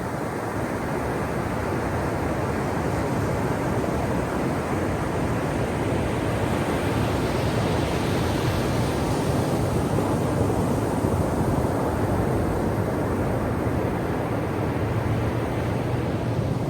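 Ocean surf washing onto a shore: a steady rush of breaking waves that swells brighter around the middle and eases off near the end.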